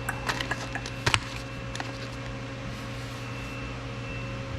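Steady electrical or machine hum with a few sharp clicks and clatters of tools being handled, the loudest a knock about a second in.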